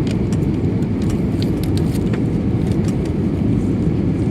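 Airliner cabin noise: a steady low rumble of engines and airflow, with scattered small clicks and rattles over it.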